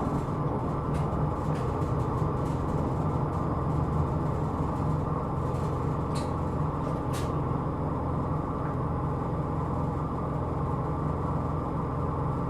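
Hino Rainbow II non-step bus heard from inside while under way: a steady low engine drone and road noise, with two short sharp clicks or rattles about six and seven seconds in.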